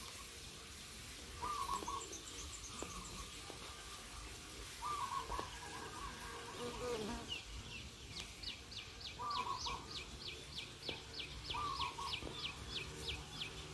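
Wild birds calling. One repeats a short, low, hooting note every few seconds. From about halfway, another gives a quick steady run of thin, high, down-slurred notes, about three a second.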